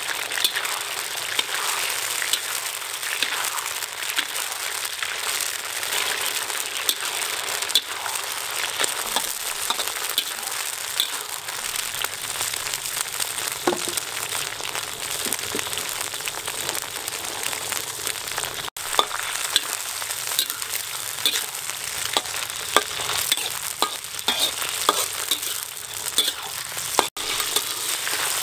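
Beef kidney with chopped bell peppers and onion frying in hot oil in a wok: a steady sizzle with scattered crackles and pops throughout.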